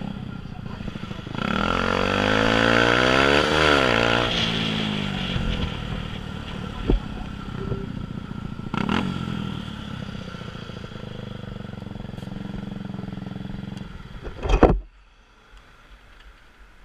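Motorcycle engine idling, with a louder engine rising and falling in pitch for a few seconds early on as a vehicle goes past. Near the end comes a loud knock, and the engine sound stops.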